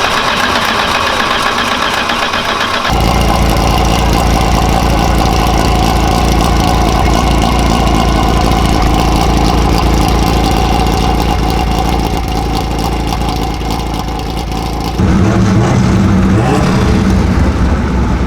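Methanol-fuelled, mechanically fuel-injected midget race car engine running at idle on a cold start. The sound changes abruptly about three seconds in to a strong, steady low pulsing, and changes again near the end.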